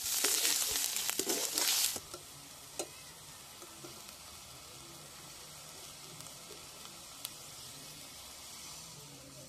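Fish curry frying in a pan and being stirred, a loud sizzle with scraping clicks. About two seconds in the sizzle cuts off suddenly, leaving only a faint hiss with an odd click.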